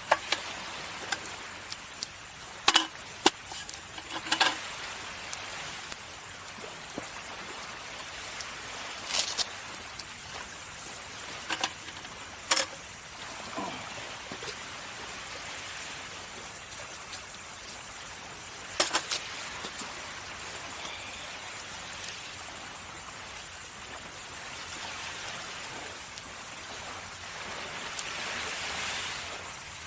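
Wood fire crackling, with sharp pops now and then, over the steady wash of sea waves on the shore. A very high hiss comes and goes several times.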